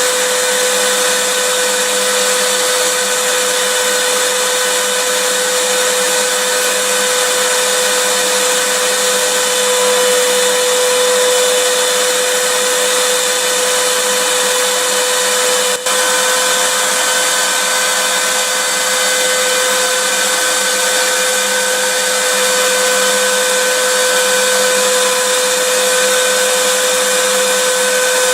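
Vacuum cleaner running steadily: a continuous airy rush with a steady mid-pitched whine, broken only by a momentary dip about halfway through.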